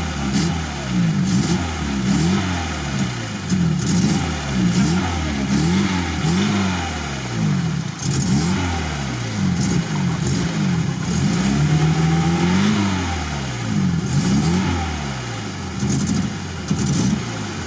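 Lada Niva's four-cylinder engine revved up and dropped back over and over, about once a second, held steady at high revs once for about a second around two-thirds of the way through, as the driver spins it up and lets out the clutch to rock the car out of deep mud. It is working without low-range gearing, so it has to be revved hard to pull.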